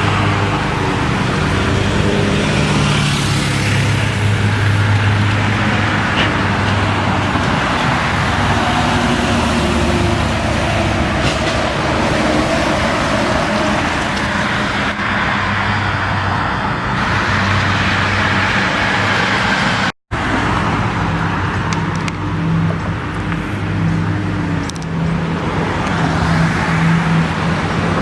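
Road traffic with trucks driving past: steady engine drone over tyre and road noise, rising and falling as vehicles pass. The sound drops out for an instant about twenty seconds in.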